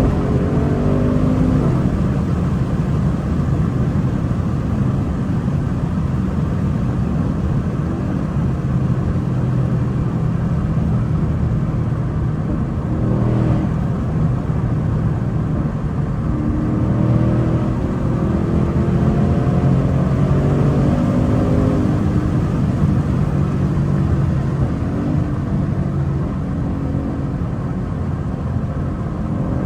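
2024 Ford Mustang GT's 5.0-litre V8 running while the car is driven, its pitch climbing and falling several times as it accelerates. The engine breathes through high-flow Steeda air filters with the intake carbon traps removed.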